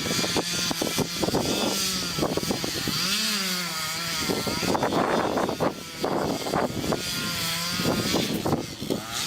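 Stihl 440 two-stroke chainsaw cutting into an oak trunk, its engine pitch rising and falling as the chain bites into the wood.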